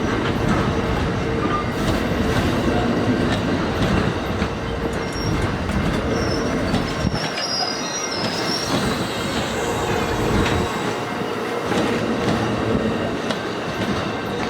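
Amtrak Coast Starlight passenger train running on the rails with a continuous rumble. A thin, high wheel squeal comes in about a third of the way through and lasts a few seconds.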